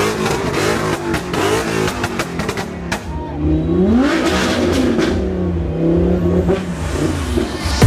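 Several sports car engines revving, their pitch rising and falling over and over with overlapping blips.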